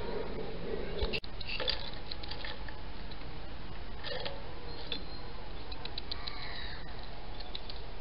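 Faint short high chirps of small garden birds and light scattered taps over a steady hiss, with a brief dropout about a second in.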